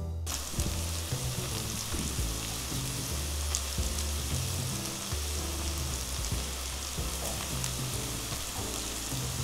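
Julienned potato pancakes frying in hot vegetable oil in a pan, a steady crackling sizzle, with chopsticks now and then prodding the strands.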